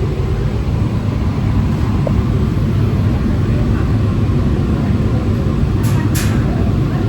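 Electric AC local train running, a steady low rumble of the coach and wheels on the track. Two short sharp high sounds come close together about six seconds in.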